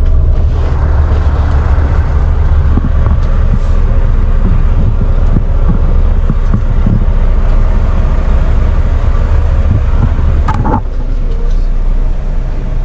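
Semi truck's diesel engine idling with a loud, steady low hum, heard from inside the cab. A brief sharp clink about ten seconds in.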